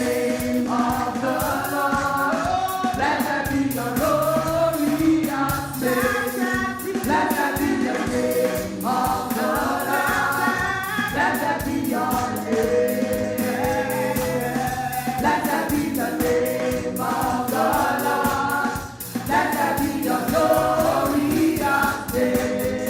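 Gospel worship music: a choir singing with band accompaniment and a steady beat.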